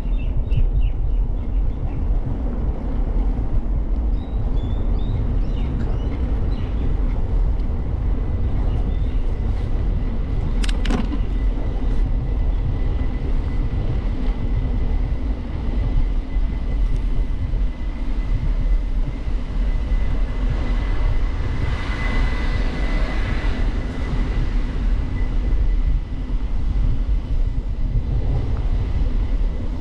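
Steady wind rumble and rolling noise recorded from a moving bicycle, with a sharp click about eleven seconds in and a brief swell of hiss a little after the middle.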